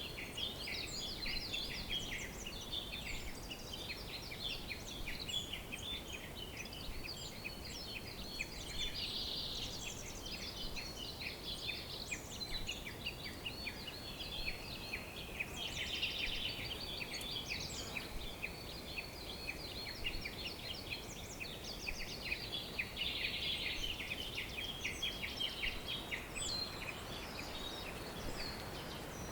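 Many birds chirping and trilling at once, a dense dawn-chorus-like mix of short calls over a faint steady hiss.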